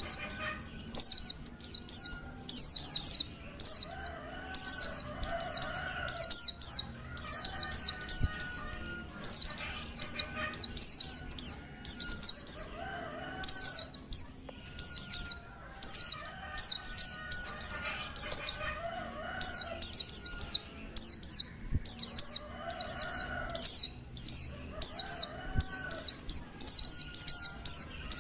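Female white-eye (pleci) calling: tight clusters of high, thin, downward-sweeping chirps, repeated about once a second. This is the female call used to stir male white-eyes into singing. Fainter, lower calls sound in the background every few seconds.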